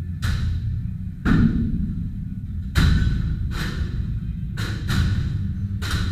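Heavy smashing blows landing one after another, about seven in six seconds, the strongest two near the middle, each with a short ringing crash, over a steady low rumble.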